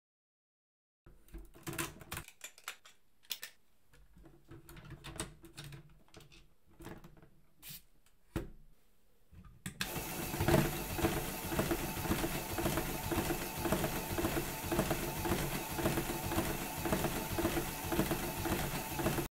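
Scattered clicks and knocks of LEGO plastic parts. About ten seconds in, a motor-driven LEGO Technic shake table starts and runs with a fast, steady rattle of the bricks.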